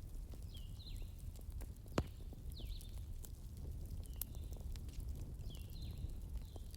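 Bonfire crackling with scattered sharp pops, the loudest about two seconds in, over a steady low rumble. A bird repeats short, high, sweeping chirps about once a second.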